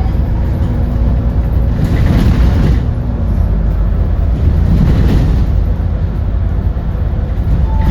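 Natural-gas GX12P engine of an Edison Motors Smart 110G city bus running with a steady low rumble, with two short swells of louder noise about two and five seconds in.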